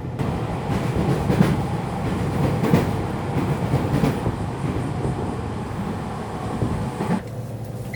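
Japanese local electric train in motion, heard from inside the carriage: a steady rumble of wheels on rails, with several clacks from the rail joints about a second and a half apart.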